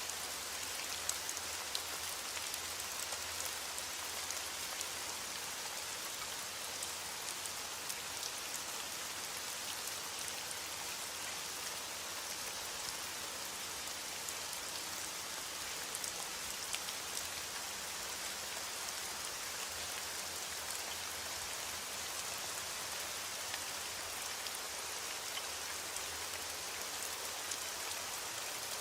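Steady rain, with many small drops ticking on a surface.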